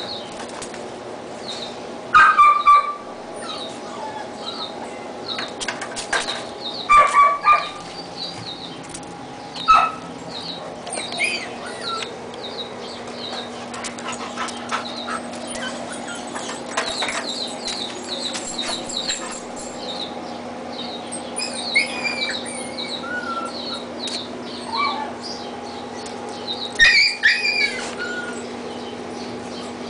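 Six-week-old husky puppies whimpering and yipping in many short, high-pitched squeaks, with louder yelps now and then and a cluster of them near the end.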